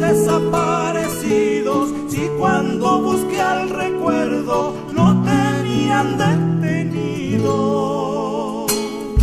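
Argentine folk song: singing with vibrato over acoustic guitar accompaniment.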